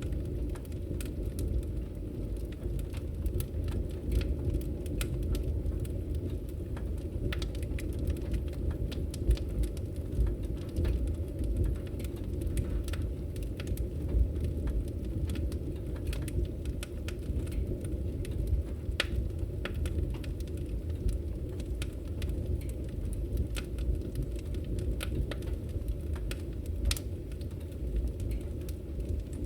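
Wood fire crackling in a fireplace: irregular sharp pops and snaps of the burning logs over a steady low rumble.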